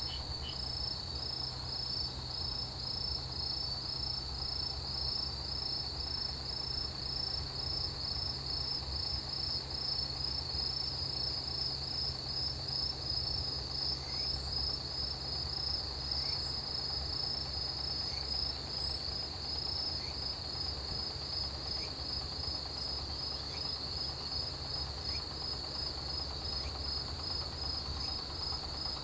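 Autumn grass insects, crickets, chirping in a steady chorus: one insect's pulsed chirping repeats about three or four times a second, and a finer, higher trill from another insect joins about seven seconds in, over a low steady rumble.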